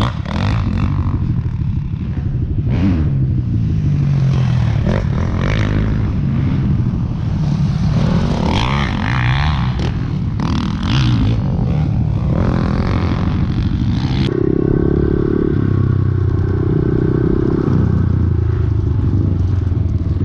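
Motocross dirt bike engine revving up and down as the throttle is opened and closed over and over, with some clatter.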